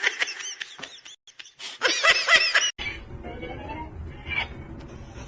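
A person laughing in quick repeated bursts, twice, with a quieter stretch after about three seconds.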